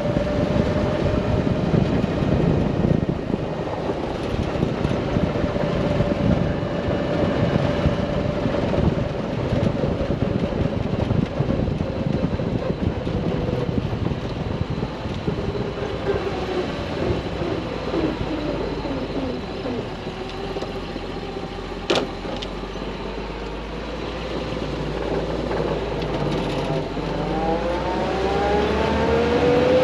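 1970 Toyota Land Cruiser's engine running while driving, its pitch sliding up and down with speed and rising again as it accelerates near the end. A single sharp click about two-thirds of the way through.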